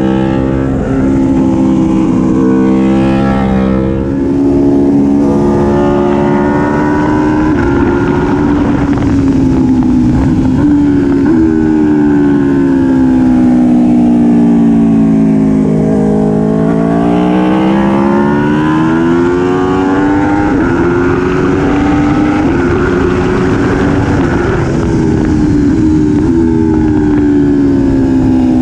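Aprilia Tuono V4 1100 Factory's V4 engine being ridden hard on track. The revs step through quick gear changes in the first few seconds, then climb. Around the middle they fall for several seconds as it slows, then climb again and keep rising and dipping.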